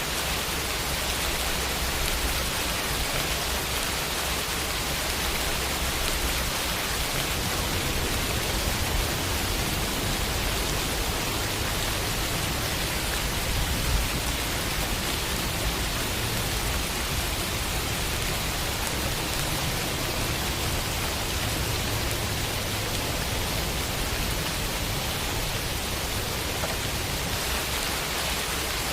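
Steady rain falling against a window, an even hiss of raindrops with a low rumble beneath, unchanging throughout.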